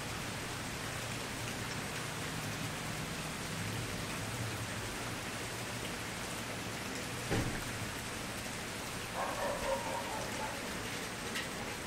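Wood campfire burning with a steady crackle, with one sharper pop about seven seconds in.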